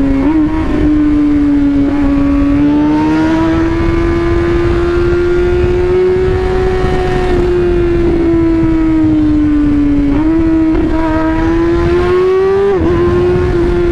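Kawasaki ZX6R 636 inline-four engine, breathing through an SC Project link pipe that replaces the catalytic converter, running loud at a high, fairly steady engine speed. The note climbs slowly, eases back down, and jumps in pitch a few times.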